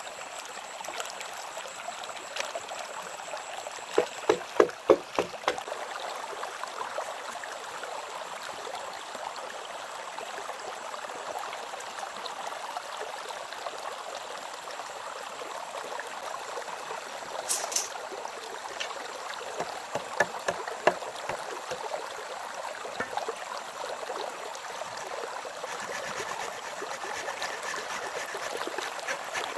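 Steady running water of a stream. About five quick knocks fall around four to five seconds in, with a few more around twenty seconds.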